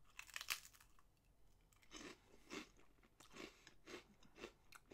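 Faint crunching as a person bites into a Japanese rice cracker (senbei), then chews it with steady crunches about twice a second.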